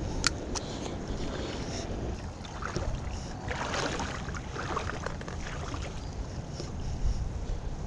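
Wind buffeting the microphone in a low, steady rumble, with two sharp clicks near the start and a swish of water about halfway through.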